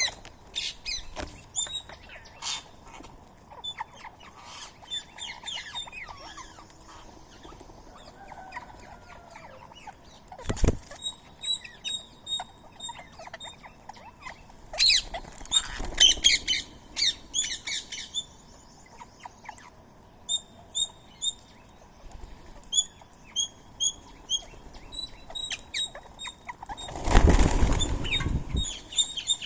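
Birds feeding: short high chirps repeated in quick runs, with scattered light clicks, and a burst of wing flapping near the end.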